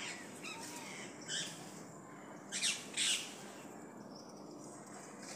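Birds calling: a few short, high squawks, one about a second in and two close together near the middle.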